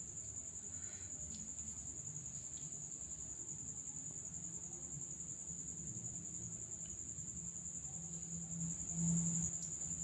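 Steady high-pitched chirring of crickets, with a low hum beneath that swells briefly near the end.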